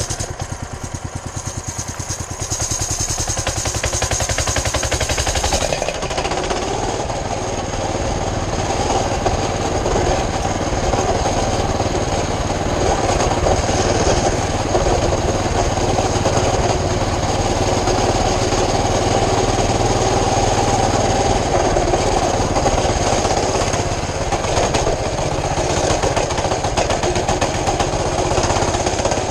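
Small mini bike engine running as it warms up after a cold start. About six seconds in it picks up and runs louder, then holds steady.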